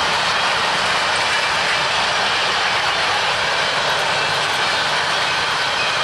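Covered hopper cars of a freight grain train rolling past, a steady rushing noise of steel wheels on rail with no distinct clicks.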